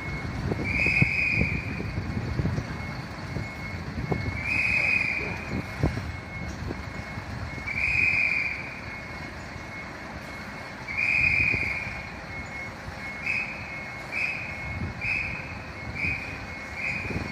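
Electronic warning beeper sounding a steady high beep about once every three seconds, switching to quicker short beeps about thirteen seconds in, over a low rumble.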